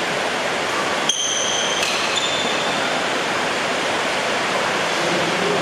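Heavy rain making a steady, even hiss. Two short high squeaks come through it, about a second in and again about two seconds in.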